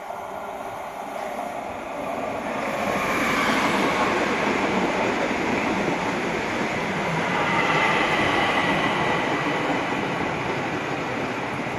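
An ÖBB CityJet electric multiple unit approaching and passing close by: wheel and rail noise swells about two seconds in and stays loud as the cars go by, with a high thin whine mixed in.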